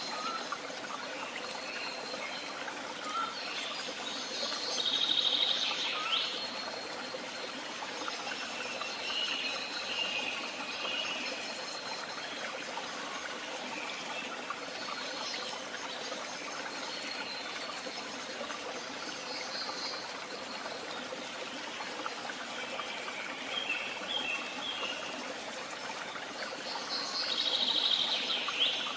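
Woodland songbirds singing short, high phrases every few seconds, the loudest about five seconds in and near the end, over the steady trickle of a stream.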